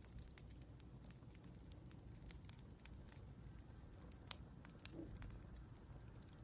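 Wood fire crackling faintly: irregular small pops and snaps over a low steady rumble, with one louder pop about four seconds in.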